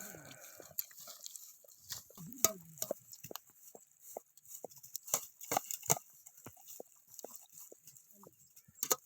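Sheep bleating, once at the start and once about two and a half seconds in, amid many short sharp clicks and knocks.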